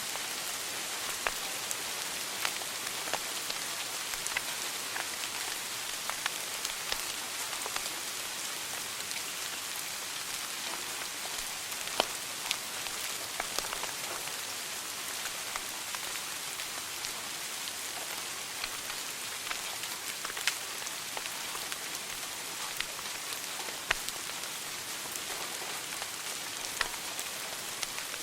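Wood fire burning in a fireplace: a steady hiss with frequent small crackles and scattered sharper pops, one of the loudest about twelve seconds in.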